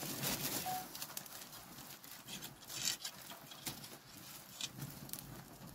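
Wood cooking fire crackling: scattered, irregular snaps and pops over a faint hiss.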